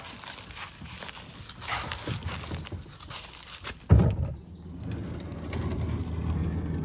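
Footsteps crunching and rustling on the ground while scrambling down a steep bank, with a loud thump about four seconds in, followed by a low steady rumble.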